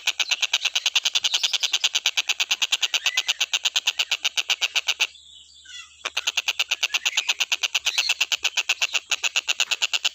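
Tengkek buto bird calling: a rapid, very even rattle of harsh clicking notes, several a second, that breaks off for about a second midway and then resumes. Faint rising whistles sound behind it.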